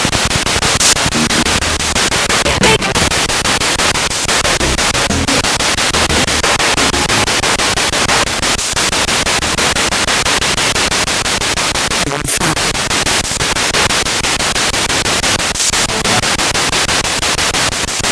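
Spirit box radio sweeping rapidly through stations: loud, continuous static chopped into quick, even steps by the scan.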